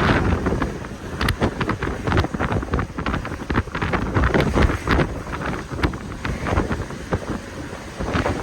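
Strong gusty wind buffeting the microphone: a heavy low rumble that swells and drops, broken by many sharp crackles.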